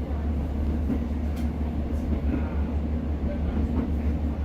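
Class 150 diesel multiple unit under way, heard from on board: a steady low drone from the underfloor diesel engine, with wheel and rail noise.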